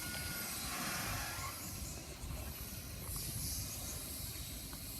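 A grain train moving away after passing: a low, uneven rumble with a high hiss that slowly fades.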